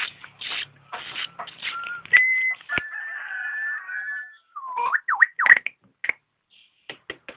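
A starling singing a varied song: short harsh notes and clicks, a held whistle about two seconds in, then a long wavering whistle and several swooping rising-and-falling glides, ending in a quick string of short notes.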